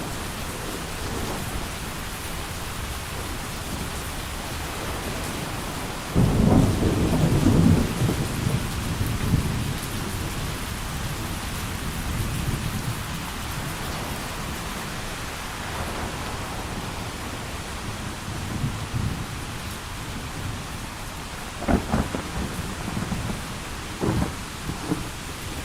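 Steady heavy rain with thunder. A loud low clap of thunder breaks about six seconds in and rumbles off over several seconds, and sharper cracks follow near the end.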